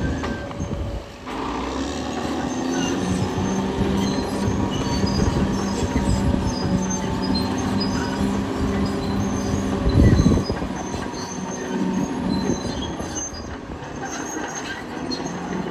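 Caterpillar D6R XL crawler bulldozer working: its diesel engine runs steadily while the steel tracks squeak and clank. There is a heavy thud about ten seconds in.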